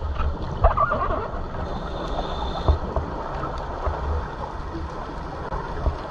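Underwater sound heard through a camera housing: a steady low rumble and gurgling of water with scattered knocks, and a high hiss lasting about a second, about two seconds in.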